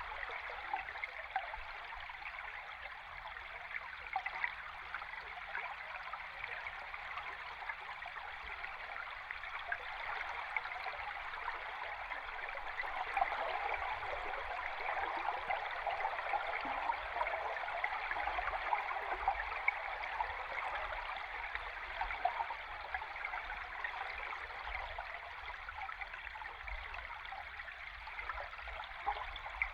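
River stream heard underwater: a steady rushing water noise with small scattered ticks, swelling a little around the middle.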